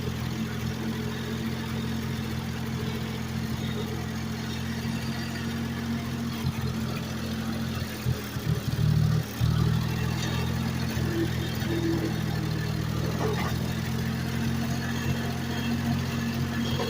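Ford 4000 tractor's three-cylinder gasoline engine running steadily under loader work, with a brief louder, unsettled patch about halfway through.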